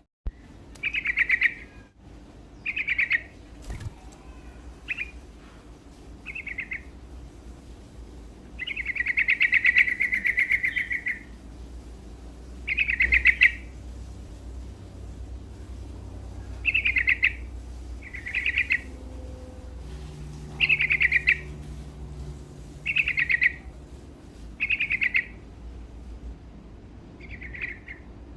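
Yellow-vented bulbul (trucuk) singing short phrases over and over, one every second or two, with a longer phrase about nine seconds in. A steady low hum runs beneath.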